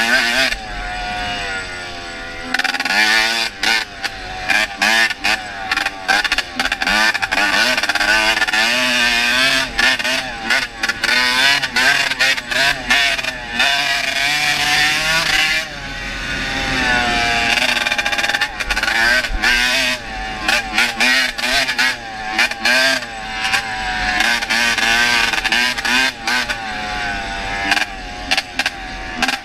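Honda CR250 two-stroke motocross bike being ridden, its freshly rebuilt engine revving up and falling back again and again as it pulls through the gears and backs off.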